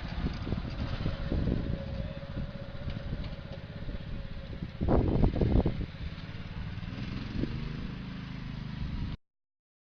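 An engine running steadily, with a louder stretch about five seconds in. It cuts off suddenly near the end.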